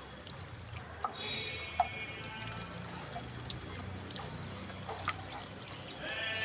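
Small irregular splashes and drips of water from house sparrows bathing, over background music with held notes.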